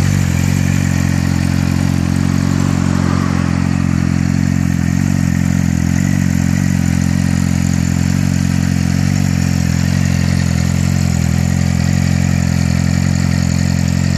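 Yamaha R6 sport bike's inline-four engine idling steadily through a Bodis full-system aftermarket exhaust.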